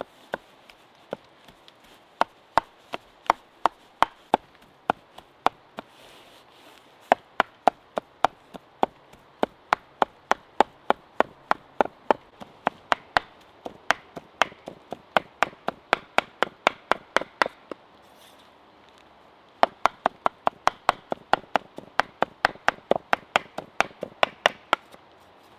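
Knife chopping fresh steak into burger mince: a fast, steady run of sharp chops, about three a second, with a short pause about three quarters of the way through.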